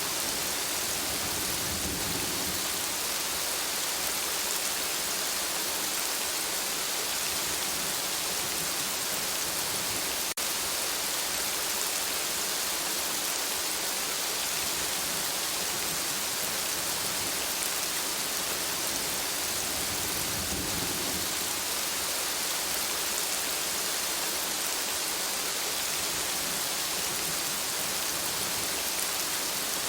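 Steady rain falling in an even hiss, with two soft low rumbles of thunder, one about two seconds in and another about twenty seconds in. A single brief click sounds about ten seconds in.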